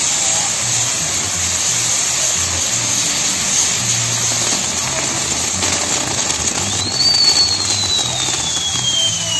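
Firework spark fountains on a burning pyrotechnic Judas effigy, a loud steady hiss. About seven seconds in, a whistling firework sounds: its whistle jumps up in pitch and then slowly falls.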